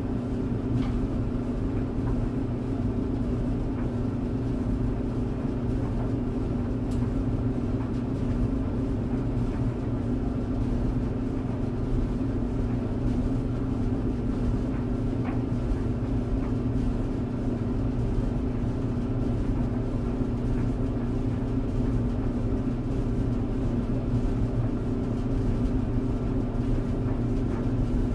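Tumble clothes dryer running with a steady low hum and rumble. A few faint ticks come through now and then.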